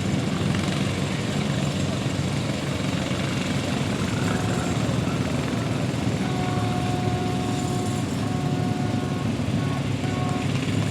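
Small garden tractor engine running steadily. From about six seconds in, thin whining tones come and go over it.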